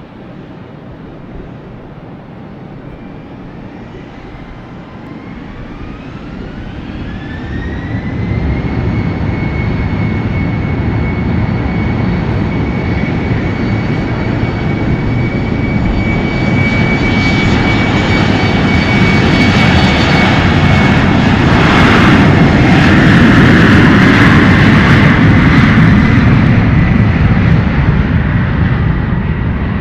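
Airliner's engines spooling up: a whine that rises in pitch, then holds steady while the engine noise builds to a peak and eases off slightly near the end, typical of an aircraft powering up for takeoff and passing by.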